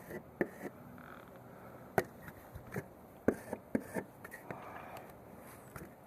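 About a dozen irregular sharp taps and clicks, scattered and unevenly spaced, the loudest about two seconds in and just after three seconds in.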